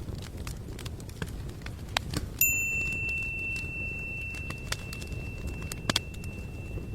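Scattered light clicks and taps over a low background hiss. About two and a half seconds in, something is struck and rings with one clear tone that fades slowly over about four seconds.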